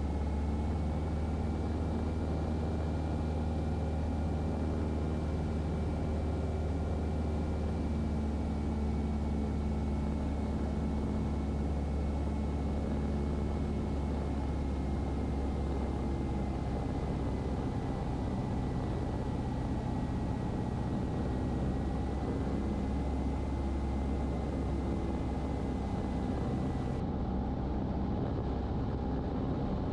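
Cessna 150's engine, a Continental O-200 four-cylinder, running steadily with its propeller, heard as a constant drone inside the cockpit.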